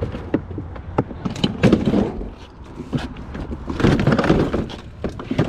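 Plastic toy truck being handled and turned over: sharp clicks and clattering knocks, thickest in two bursts, about a second and a half in and again about four seconds in. The rattling comes as he looks for the truck's battery.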